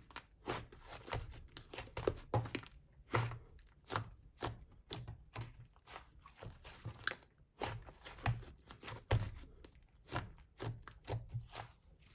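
Slime being squeezed, pressed and pulled apart by hand: an irregular string of sticky pops, crackles and clicks, a few each second.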